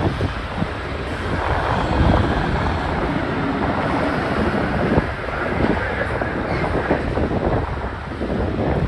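A train rolling past, with a steady rumble of railcar wheels on the track and irregular clacks and knocks running through it.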